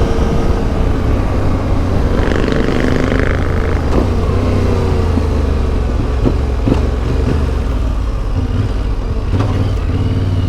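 Yamaha Ténéré 700's CP2 parallel-twin engine running through an Akrapovic exhaust as the motorcycle is ridden, its pitch easing down about four seconds in. A few sharp clicks come through over the engine note.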